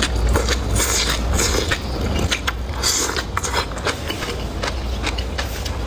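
A person eating close to the microphone: irregular crunching, clicking and smacking bites and chews, over a steady low hum.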